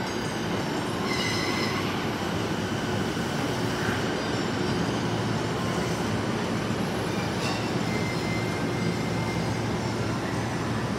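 E217-series electric train rolling slowly into the platform and braking to a stop, with steady running noise and brief high squeals about a second in and again around eight seconds in.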